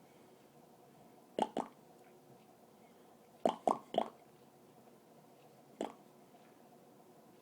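Short wet mouth noises made with water held in the mouth: two quick pops, then three in a row, then one more.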